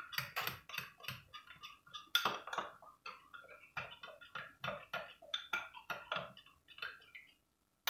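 A spoon stirring a tomato sauce in a bowl, clinking against the sides in quick, irregular taps; the tapping stops shortly before the end.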